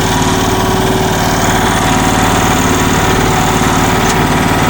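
Mini excavator's engine running steadily at an even speed, with a fast, regular firing pulse.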